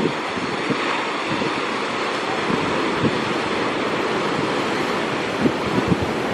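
Rough sea surf rushing steadily, with wind buffeting the microphone in short low gusts.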